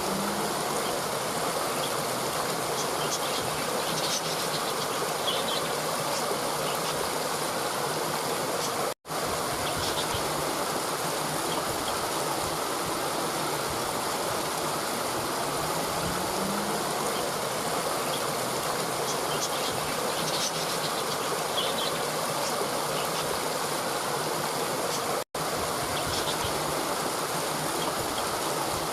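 Steady rushing of a flowing stream, with faint high chirps now and then; the sound cuts out for an instant twice.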